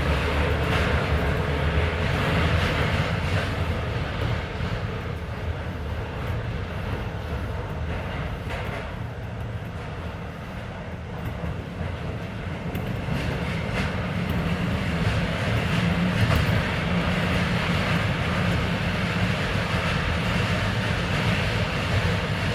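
Interior running sound of a Keisei 3400 series electric train: wheels on the rails and a steady rumble from under the car, with the air-conditioning running. The noise eases a little around the middle and builds again near the end.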